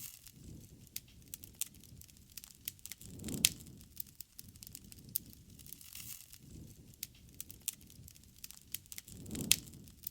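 Wood campfire crackling, with many small sharp pops and two louder snaps, about a third of the way in and near the end, over a low rumble that swells and fades.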